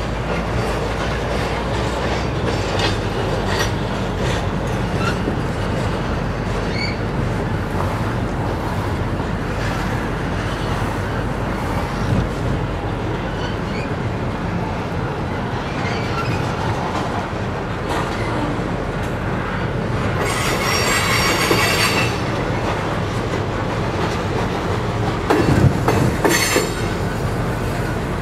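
Covered hopper cars of a freight grain train rolling over a steel trestle bridge: a steady rumble of wheels on the steel deck with scattered clacks from the rail joints. About twenty seconds in, a wheel squeals high and shrill for about two seconds, and a shorter squeal comes near the end.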